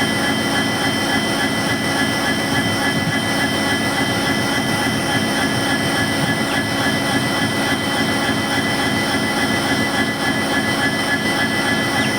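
EMD WDG4 diesel locomotive's turbocharged engine running steadily, with a high, even turbocharger whine over it: the 'jet engine humming' of this class.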